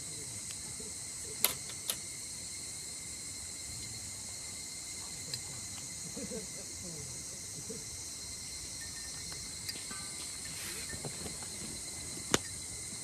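A chorus of night insects calling steadily, with a high-pitched hum that does not let up. A few sharp clicks or snaps cut through it: two close together about a second and a half in, and one near the end.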